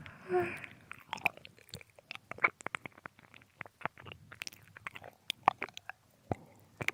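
Close-up binaural ear-licking mouth sounds: irregular wet tongue and lip clicks and smacks. A breath about half a second in.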